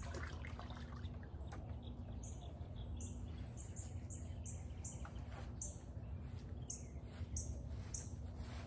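A bird chirping over and over: short high notes about twice a second, over a low steady rumble.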